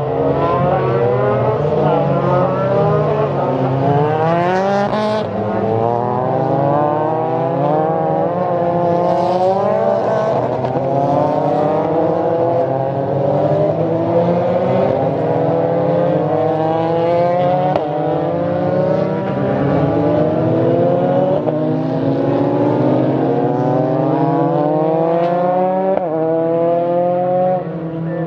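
Several F4 formula race cars pass one after another, their engines revving and climbing up through the gears as they accelerate out of the chicane.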